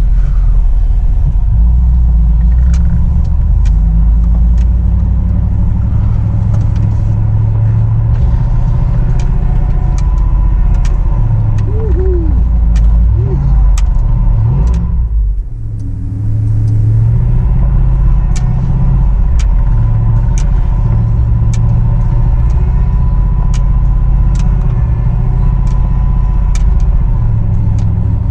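Truck engine running with a steady low rumble while driving on a snowy off-road trail, with sharp clicks scattered throughout. The sound drops briefly about halfway through.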